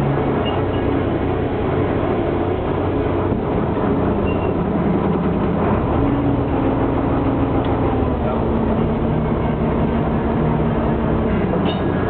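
A boat's engine running steadily, with a constant noisy rush and a low hum that shifts a little in pitch.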